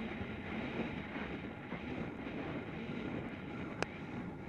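Wind rushing over the microphone as a steady rumbling hiss, with one sharp click near the end.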